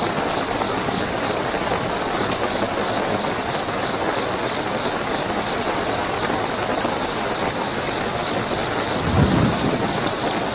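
Steady rainfall with night crickets chirping as a continuous high trill. About nine seconds in, a brief low rumble rises over the rain.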